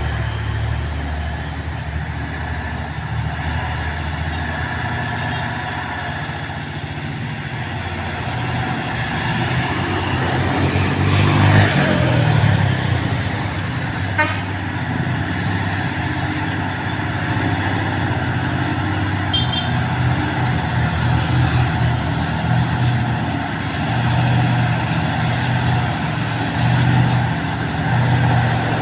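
Heavy diesel trucks' engines running steadily under load on a climb, one passing close about eleven seconds in with a falling pitch as it goes by, and a brief horn toot.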